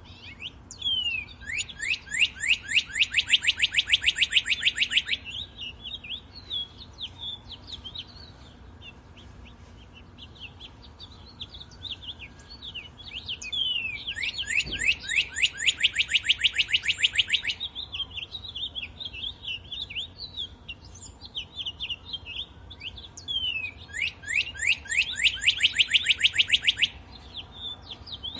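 Woodland birdsong: one bird sings a loud trill of quick falling notes, about eight a second, lasting three to four seconds. The trill comes three times, with softer scattered chirps from other birds in between.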